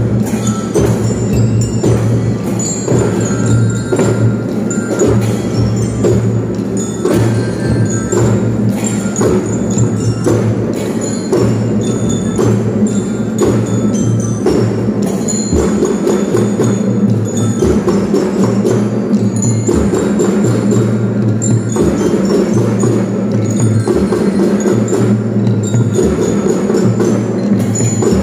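Kindergarten drum band playing: a steady beat of many drum strokes with a ringing bell melody over it.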